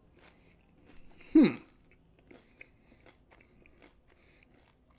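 Mouth chewing crunchy Doritos Minis tortilla chips: faint scattered crunches and clicks, with one short louder voiced sound from the eater that drops sharply in pitch about a second and a half in.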